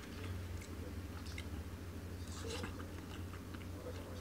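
A person chewing a mouthful of yakitori, a grilled chicken skewer in tare sauce, with scattered soft, wet mouth clicks over a steady low hum.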